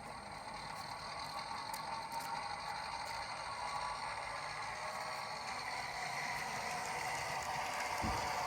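HO-scale diesel locomotive running forward, its ESU sound decoder's prime-mover sound playing through a small speaker over the whir of the model's motor and gears, slowly growing louder. A short low thump comes near the end.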